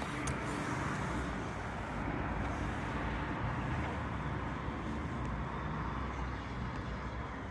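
Steady rumble and hiss of road traffic, swelling slightly in the middle and easing off near the end.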